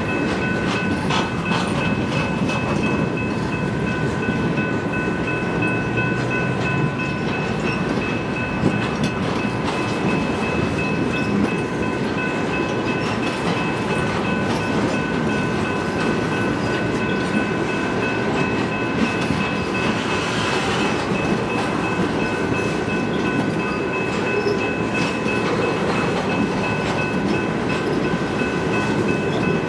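A long train of empty eight-axle heavy-duty flatcars rolling past: a continuous rumble of wheels on rail, with occasional sharp clacks and a steady high ringing over it.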